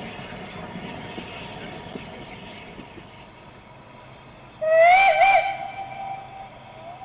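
Steam locomotive whistle, from the Peckett 0-6-0 saddle tank 2150, blown about four and a half seconds in. It rises in pitch as it opens, dips twice quickly, then holds for about two seconds, with a short faint toot near the end. Before it, the train's running noise dies down.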